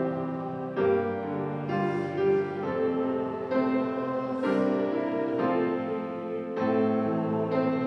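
Keyboard instrument playing a slow hymn tune in sustained chords that change about once a second.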